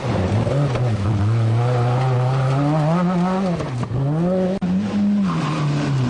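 Group B rally car engine running hard, its pitch climbing and falling repeatedly as the driver works through the gears, with brief drops in revs a little under four seconds in and about four and a half seconds in.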